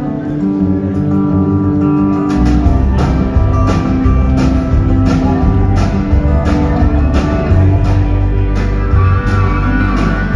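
Live country band playing the instrumental lead-in to the song: guitar at first, then the fuller band comes in with a heavy low end and a steady beat about two seconds in.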